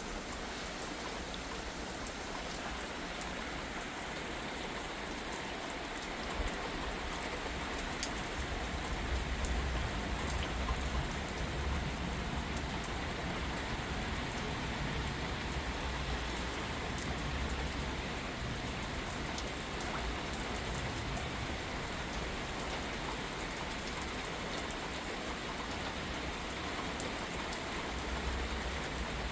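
Steady heavy rain falling and pattering on surfaces as a thunderstorm's rain picks up again. A low rumble swells about a third of the way in and again near the end.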